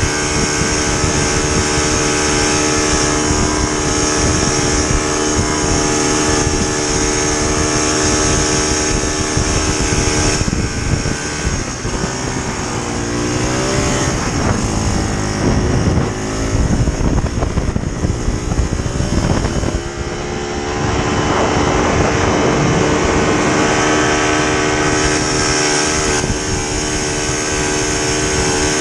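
Vintage snowmobile's two-stroke engine running steadily. Its pitch rises and falls a few times about halfway through, then settles back to a steady note.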